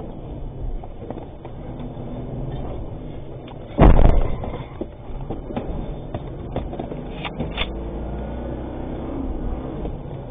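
Armoured truck running with steady engine and road noise, broken by one loud, sharp bang about four seconds in, with a few fainter knocks after it.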